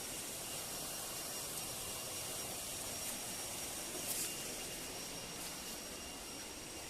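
Steady rush of river water, an even hiss strongest in the high end, with a thin steady high tone over it and a soft click about four seconds in.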